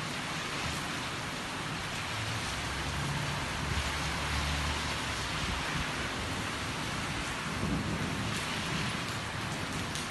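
Rain falling steadily, a dense even hiss. A low rumble swells about three seconds in and fades by the middle, with a smaller one near the end.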